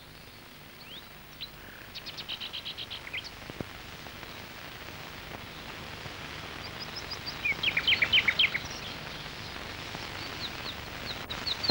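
Birds chirping over a faint steady hiss: a quick run of high chirps about two seconds in, a cluster of short chirps around eight seconds, and a string of repeated high notes just before the end.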